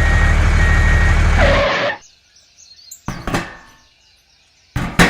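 A truck engine running steadily with a reversing beeper sounding about once a second. It cuts off suddenly about two seconds in, followed by two short, sharp sounds.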